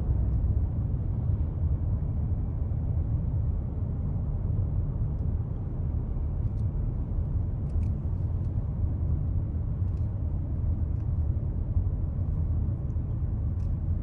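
A car driving steadily on the highway: a continuous low rumble of engine and tyre road noise.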